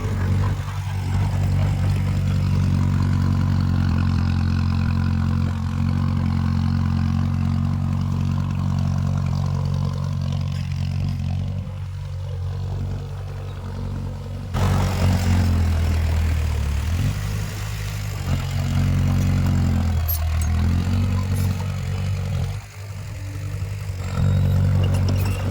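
Heavy diesel engine of earthmoving machinery running steadily, with an abrupt change in the sound about halfway through, after which the engine note rises and falls.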